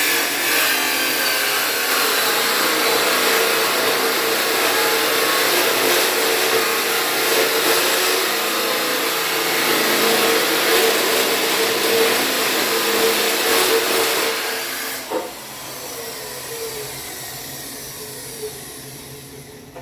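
Electric grinder running on steel, a loud steady hiss with a steady hum. About fifteen seconds in it is switched off and winds down, its pitch falling.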